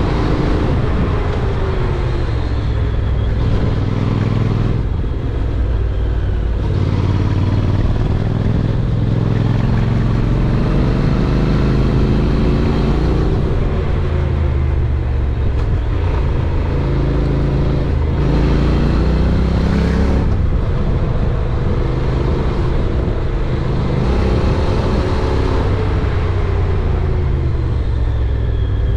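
Honda NC750X's parallel-twin engine running under way, its pitch climbing and dropping again and again as it accelerates and shifts through the gears.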